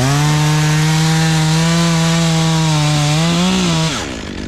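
Chainsaw revving up to full throttle and held there for about four seconds, cutting through wood, then dropping back to idle near the end.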